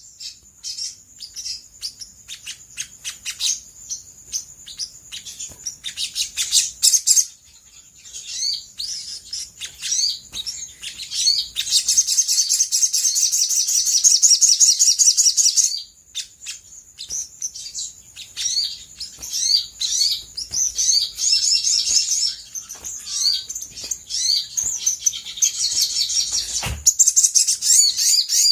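Olive-backed sunbird calling, a fast high-pitched chattering song of chirps and rapid trills. It comes in loud runs separated by stretches of sparser single notes.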